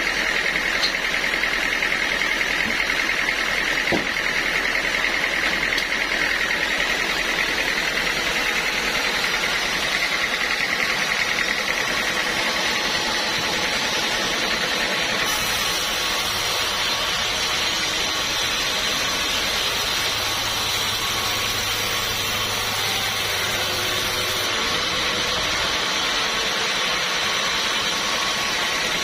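Sawmill saw running through teak wood: continuous loud machine noise with a steady high whine for roughly the first half, and the tone of the noise shifting a couple of times after that.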